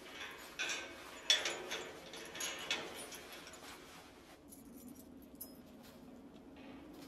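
A bunch of keys jangling and clinking in a series of short rattles, stopping about four seconds in, after which only a low steady hum remains.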